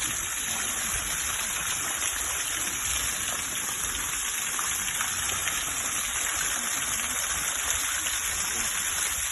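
Steady rushing of water, an even hiss with no breaks or distinct splashes.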